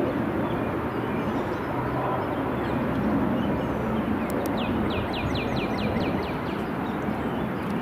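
A small bird singing a quick run of about ten falling notes about halfway through, over a steady rumble of outdoor noise.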